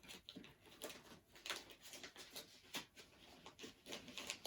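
Faint, irregular rustling and crinkling of a folded paper instruction sheet being pushed down the side of a cardboard kit box.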